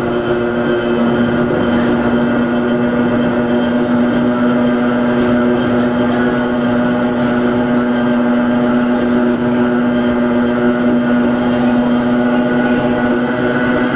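Hakone Tozan Railway Moha 1 electric railcar running at a steady speed, heard from on board. Its nose-suspended (tram-type) traction motors and gearing give a steady hum of constant pitch over the rumble of the running gear.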